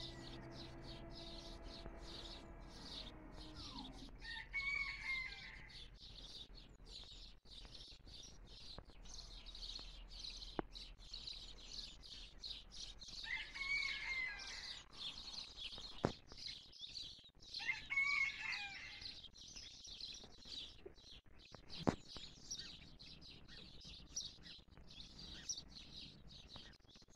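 Birds singing: a steady high chirping chorus, broken by three louder, longer calls about 4, 13 and 18 seconds in. A steady hum fades out in the first few seconds, and there are a few faint clicks.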